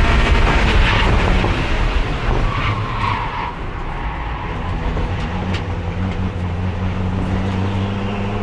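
Race car engine heard onboard, held in fourth gear because the transmission has lost its other gears. It is loud at first, with a short tyre squeal about three seconds in; the engine then runs quieter and steadier and picks up again near the end.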